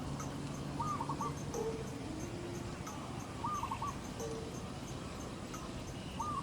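Birds calling in a phrase that repeats about every two and a half seconds: a short run of notes over lower cooing notes, with faint quick ticking behind.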